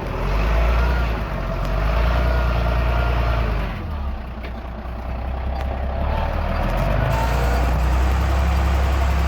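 Heavy diesel engine running steadily. It drops in loudness for a couple of seconds midway, then picks up again.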